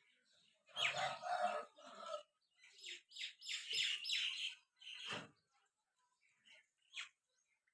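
Birds chirping and squawking in quick bursts of harsh calls. A short sharp sound comes about five seconds in, and a single call near the end.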